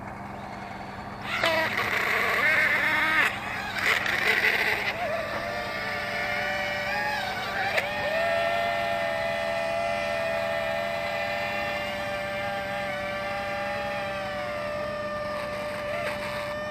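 Wingsland S6 brushless quadcopter's motors spinning up with a harsh, uneven buzz, then settling into a steady high-pitched whine with overtones that dips slightly in pitch later on.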